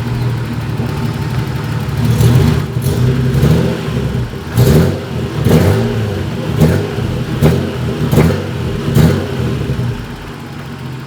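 Nissan RB30 straight-six engine of an R31 Skyline idling, then revved once, then blipped six times in quick succession, about one blip a second, before dropping back to idle.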